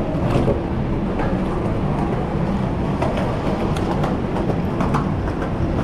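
Steady rumbling road and wind noise from riding a bicycle through city traffic, with a few faint clicks and rattles.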